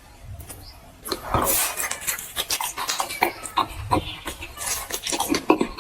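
Close-miked eating sounds: irregular clicks, crackles and crunches of food and its packaging being handled and bitten, starting about a second in.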